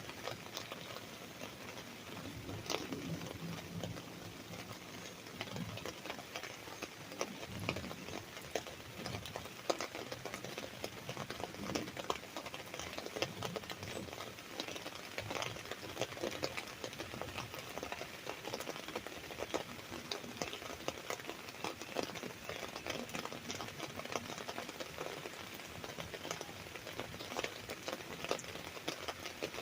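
Rain falling on an umbrella: a dense, irregular patter of drops tapping the canopy, steady throughout.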